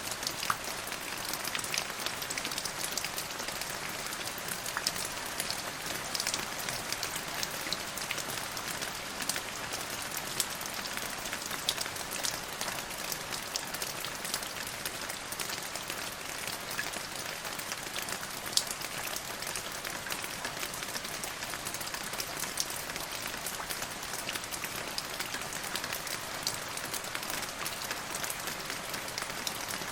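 Steady rain falling, with a continuous hiss and many individual drops ticking sharply on a hard surface.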